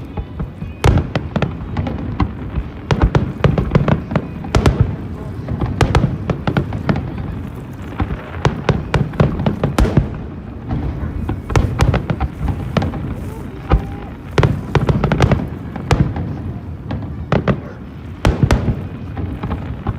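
Aerial fireworks bursting in quick, irregular succession: many sharp bangs with deep booms under them.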